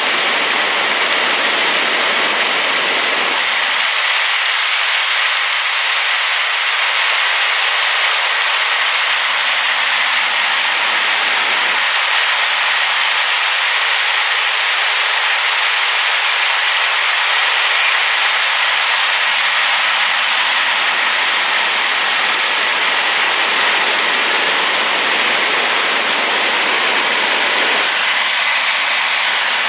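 A river waterfall swollen by rain, its falling water making a loud, steady rush.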